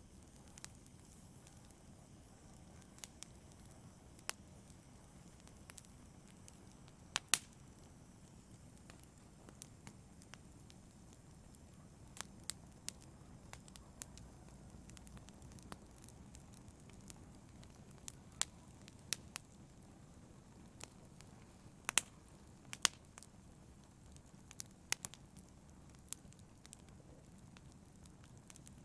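Wood fire burning with a low steady hiss and frequent irregular crackles and pops, a few of them sharper and louder.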